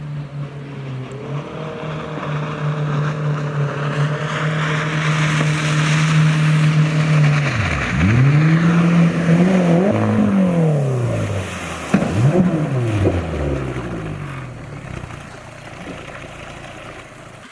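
Mercury 60/40 jet outboard running at a steady throttle. Near the middle it drops and picks up again, then revs up and down a few times before easing off and fading, over a steady hiss.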